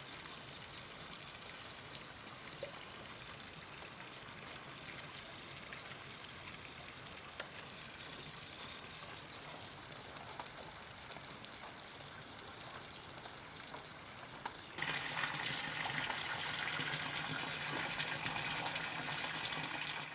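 Running water: a steady hiss that turns abruptly louder and fuller near the end.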